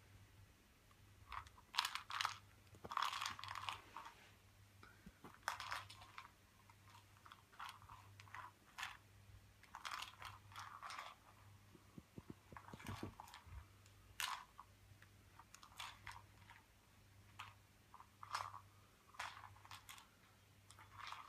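A cat crunching dry treats, in short irregular bursts of crunching every second or so.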